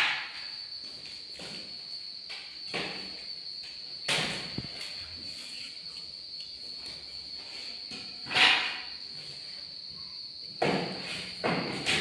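Occasional knocks and rustles from handling the packing and parts of a newly unboxed vinyl cutting plotter, with a cluster of them near the end, over a steady high-pitched whine.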